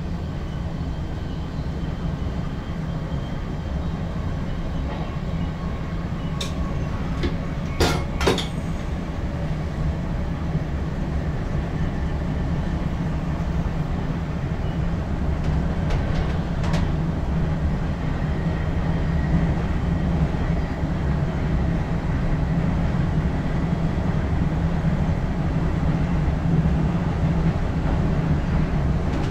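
NS ICM (Koploper) electric multiple unit running along the track, heard from the driver's cab: a steady low rumble that slowly grows louder. It is broken by a few sharp clicks about a quarter of the way in, the two loudest close together, and a few fainter ones just past halfway.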